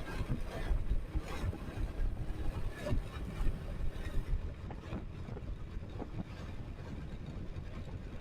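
Wind buffeting the microphone on a moving motorcycle, a low uneven rumble with scattered small knocks.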